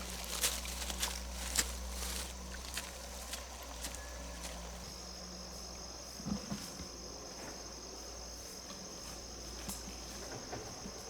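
An insect, a cricket-like caller, trilling steadily at one high pitch, starting about five seconds in. Scattered sharp ticks and taps come in the first couple of seconds.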